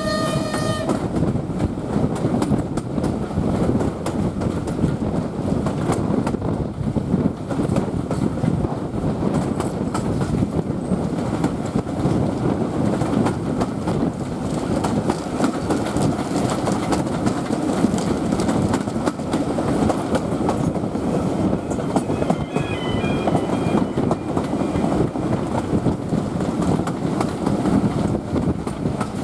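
A heritage steam train on the move: steady rumbling of the coaches with a dense clatter of wheel and rail-joint clicks. A steam whistle, likely from the Bulleid light pacific 34070 Manston, cuts off about a second in.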